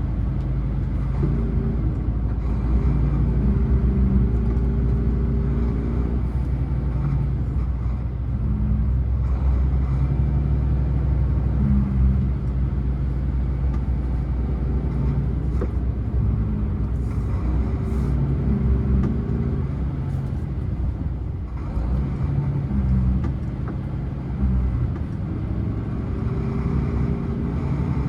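Scania truck's diesel engine running while descending a long mountain road, a steady low drone whose pitch shifts up and down every few seconds.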